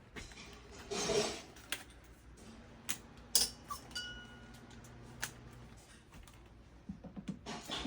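Scattered clicks, knocks and light metallic clinks of hand tools, screwdriver bits and small door hardware being handled, with one short ringing clink about three and a half seconds in.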